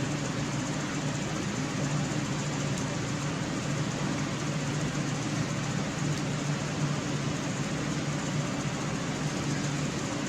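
Steady machine hum: a low drone over an even hiss, unchanging, with no distinct clicks or knocks.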